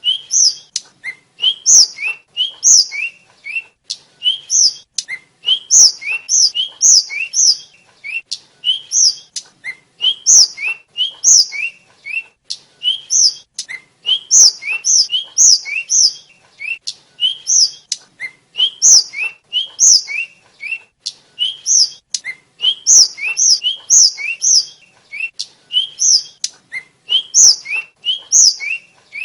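Tledekan (sulingan), a sikatan flycatcher, singing continuously: quick runs of short, high whistled notes that sweep up and down, with brief pauses between runs.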